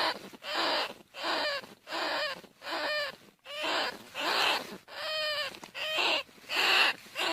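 Bandicoot rat squealing, a steady string of short pitched calls about one and a half a second, each about half a second long.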